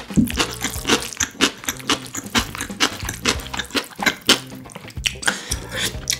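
Close-miked chewing of jjapaguri black-bean instant noodles and sirloin steak: wet, sticky mouth clicks and smacks, several a second.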